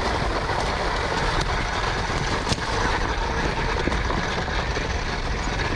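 Steady rush of wind and tyre noise from a 2021 KTM Freeride E-XC electric dirt bike being ridden along a dirt trail, with a few sharp knocks. There is no engine note; the electric drive is near silent.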